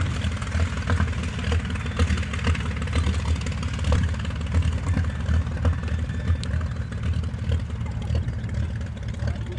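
The two inverted six-cylinder de Havilland Gipsy piston engines of a DH89A Dragon Rapide biplane airliner, running steadily with a deep, slightly pulsing note.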